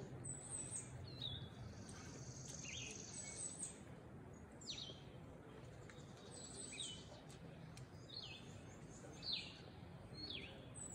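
Wild songbirds calling: a string of quick, high chirps that slide downward, one every second or two, with a steady high buzz for a second or so about two seconds in.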